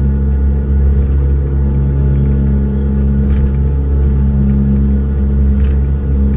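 Steady, loud engine drone with a low rumble, unchanging in pitch, with a few faint clicks over it.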